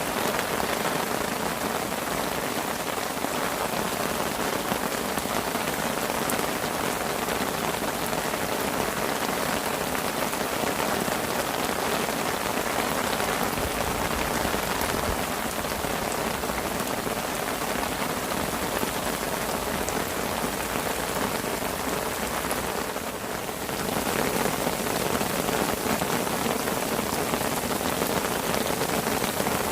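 Rain falling steadily on a fishing parasol, a dense patter of drops. It eases slightly about three quarters of the way through, then picks up again.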